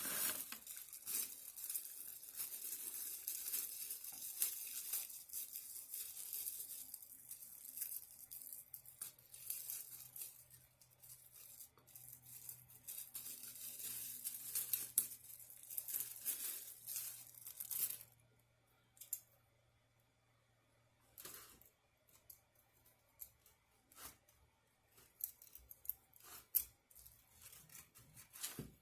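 Crackling, tearing sounds of crispy fried food being pulled apart and eaten close to the microphone, dense for about 18 seconds, then thinning to scattered clicks and smacks.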